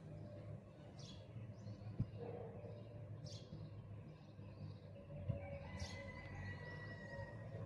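A bird calling: three short, high chirps falling in pitch, a couple of seconds apart, over a faint low steady hum. Two sharp clicks stand out as the loudest moments.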